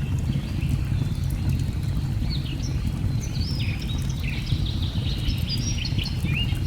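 Steady low rush of a waterfall with many birds chirping in short gliding notes over it, and scattered light crackles of a burning log fire.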